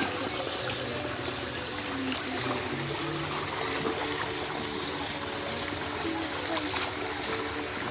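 Water flowing steadily in a stream, with background music carrying a melody over it.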